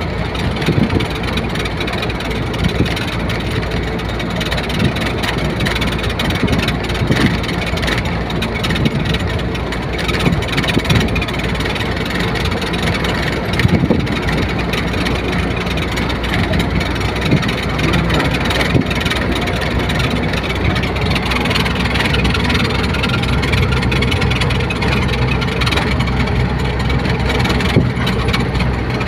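Truck engine running steadily with continuous rumble and noise, and a few brief louder knocks along the way.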